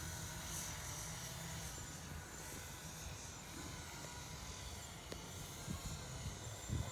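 Small 3D-printed FPV quadcopter in flight some way off, its motors giving a faint, steady buzzing whine over a low rumble.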